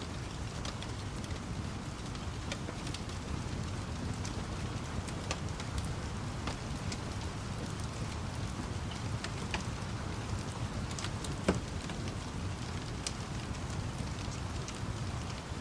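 Steady rain falling, mixed with a wood fire crackling in scattered pops over a low rumble, with one louder pop about two-thirds of the way through.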